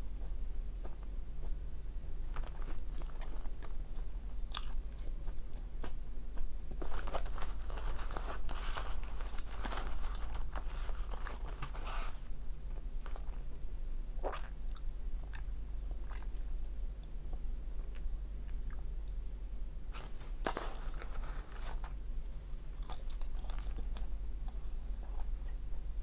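Close chewing of McDonald's french fries: wet, crackly mouth clicks in several spells, the longest from about 7 to 12 seconds in, over a steady low hum.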